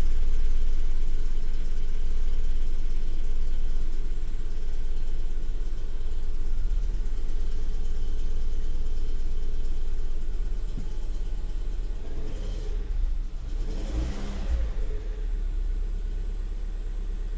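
Lada Vesta running, heard with a steady low rumble, with a few short knocks in the last third: the unexplained knock the owner calls otherworldly.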